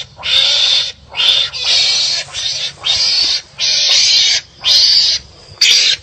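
Wild animals calling at each other in harsh, raspy cries, about seven short outbursts each under a second long with brief pauses between, as when animals bite and fight.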